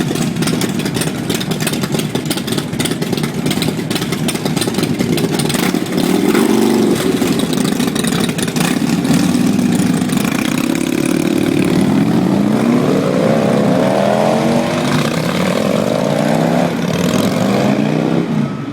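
Big-block motorcycle engines running, the revs climbing several times in rising sweeps in the second half.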